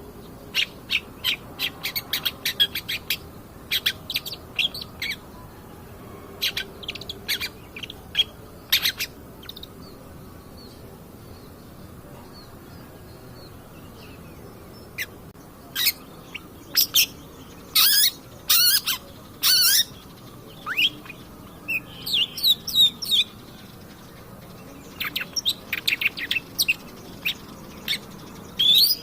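Long-tailed shrike (cendet) singing: loud runs of short, sharp, high chirping notes in bursts, with a lull of several seconds about a third of the way in before it picks up again.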